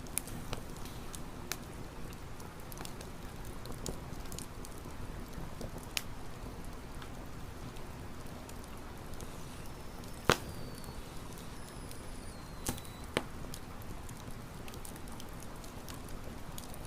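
Wood campfire crackling, with irregular small pops over a steady hiss and one loud pop about ten seconds in.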